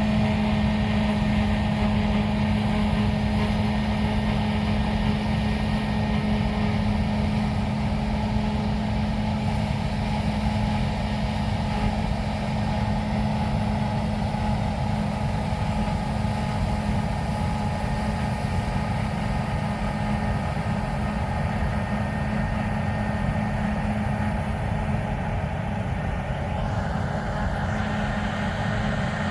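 Heavy harvest machinery working in a wheat field: a steady diesel engine drone with a strong, even hum, easing off slightly toward the end.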